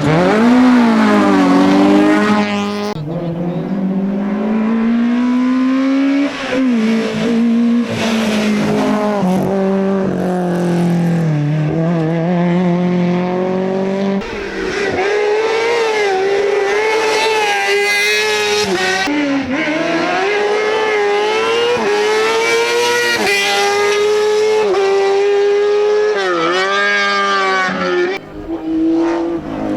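Hillclimb competition cars at full throttle, the engines revving up and dropping sharply again and again through gear changes. The sound changes abruptly a few times as one car gives way to the next.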